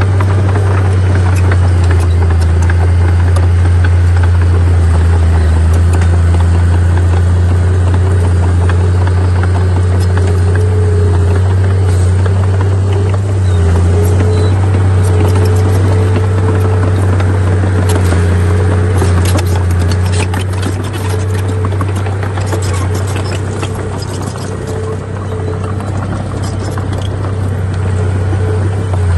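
Heavy diesel earthmoving machinery running steadily with a deep engine drone. Scattered clanks and rattles come in during the second half, as the level dips slightly.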